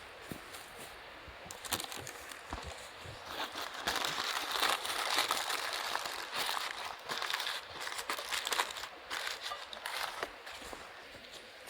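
Wood campfire crackling and hissing, with many small pops. It grows louder about three and a half seconds in and eases near the end.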